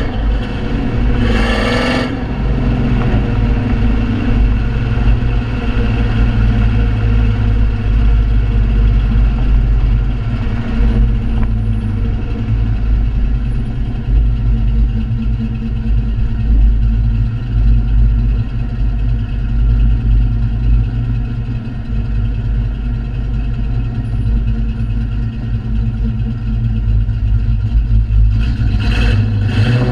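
Cammed 4.6-litre V8 of a 2001 Mustang Bullitt with MAC long-tube headers, Prochamber and cat-back exhaust, idling with a wavering, uneven beat from its race camshafts. It is revved briefly about a second and a half in and again near the end.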